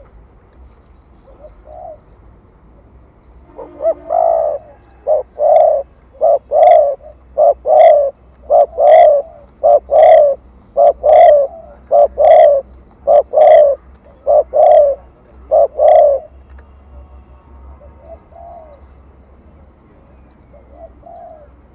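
Spotted dove cooing in the 'thổ thúc gù' style, the call used to lure wild doves: a long, loud run of low coos in short repeated groups from about four seconds in to about sixteen, with a few faint coos before and after.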